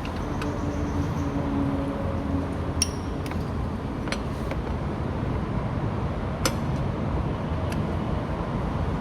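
A few separate light metallic clinks of hand tools against metal parts, over a steady background hum of traffic.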